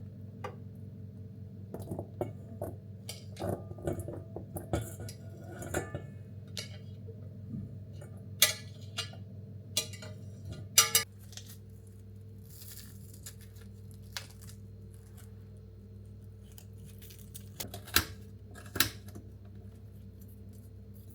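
Scattered light clinks and knocks of small hard objects over a steady low hum, busier in the first half, with a few louder clicks later on.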